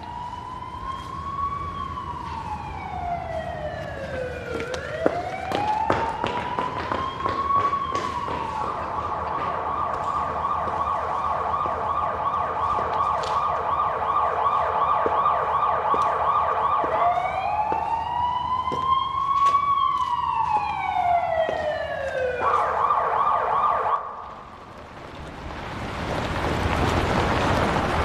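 Police siren alternating slow rising-and-falling wails with a fast yelp, then cutting off suddenly about three-quarters of the way through. A swelling rush of noise follows near the end.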